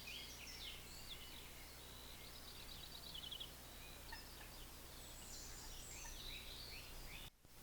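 Woodland songbirds singing, several at once, with chirps, whistles and a quick trill about three seconds in. The sound drops out abruptly for a moment near the end.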